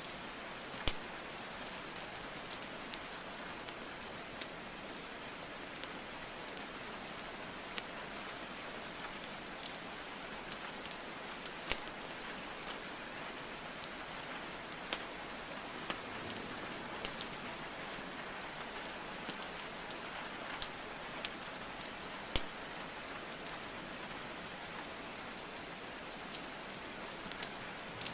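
Steady rainfall mixed with a wood fire crackling: an even hiss of rain with scattered sharp pops and snaps of burning logs.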